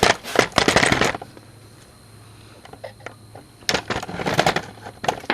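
Pry bar working against a CV axle to pop it free, giving rapid metal-on-metal clicks and clanks in two bouts about a second long, with a quiet pause between.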